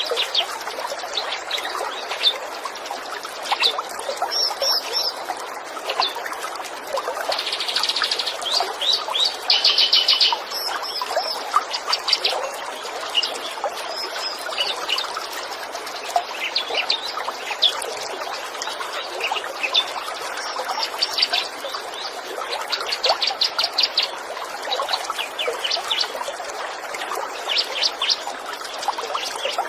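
Songbirds chirping and singing short rapid trills again and again, over the steady trickle of flowing water.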